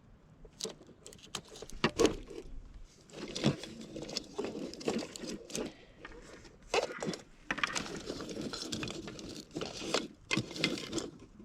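Rustling with irregular light knocks and clicks of items being picked up and sorted through by hand, with one sharper knock about two seconds in.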